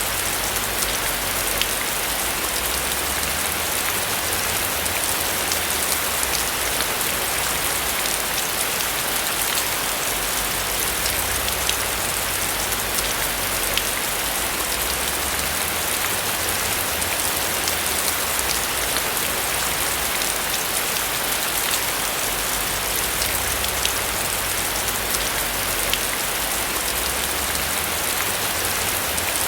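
Steady rain falling on a roof: an even, dense hiss dotted with countless small drop ticks, with a faint low rumble beneath.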